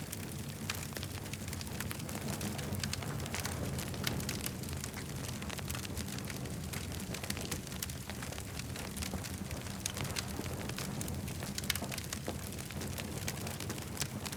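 Campfire crackling, with frequent irregular sharp snaps and pops over a steady low rumble.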